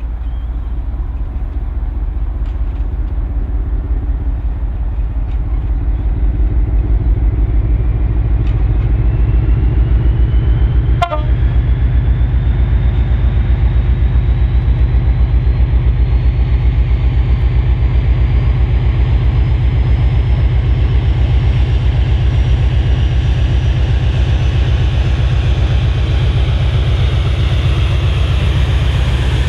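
Diesel locomotive engine working under load: a deep, steady, rhythmic throb that grows louder over the first few seconds, with a whine that climbs steadily in pitch throughout.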